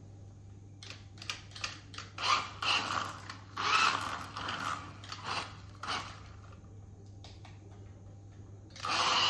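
Rebuilt Tyco RC Outlaw's electric motor and gears whining in about half a dozen short throttle bursts, with a few clicks before and between them. A longer, steady run of the motor starts near the end.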